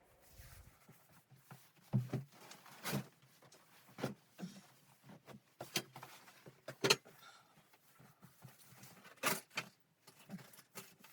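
Irregular knocks and clicks of objects being handled, with a few louder knocks among softer clatter, heard in a small room.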